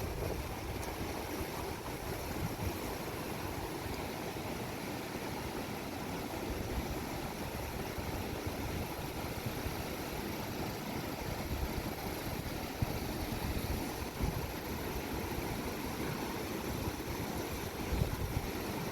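Steady rushing of a monsoon-swollen mountain river, an even roar of flowing water with no breaks.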